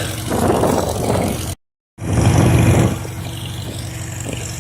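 1951 Farmall H tractor's four-cylinder engine running steadily under way, with a rushing noise over it for the first three seconds. The sound cuts out completely for about half a second, about a second and a half in.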